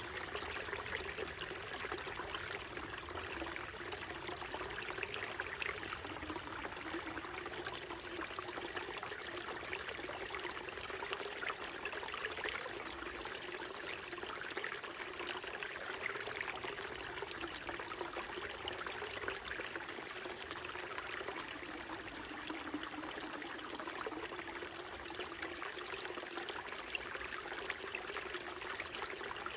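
Small mountain stream flowing steadily over rocks, a continuous trickling and splashing of water with a low gurgling undertone.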